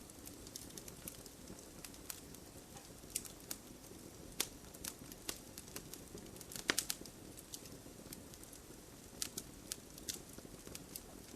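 Campfire crackling: irregular sharp pops and snaps from the burning wood over a low steady rumble of flame, with a quick cluster of the loudest pops a little past the middle.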